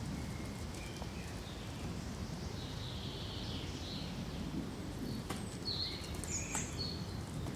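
Birds calling in short, scattered chirps, busier in the second half, over a steady low rustle of wind in pine trees. Two sharp ticks sound a little past the middle.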